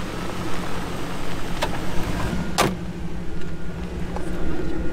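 A vehicle engine idling steadily, with a single sharp knock about halfway through.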